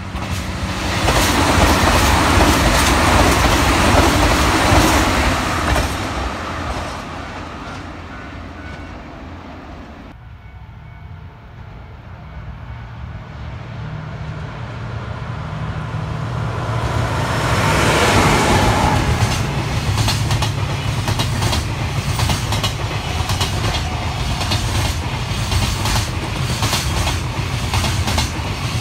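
An express passenger train rushes past at speed and fades. Then a long container freight train approaches and passes close by, its wheels clattering rhythmically over the rail joints.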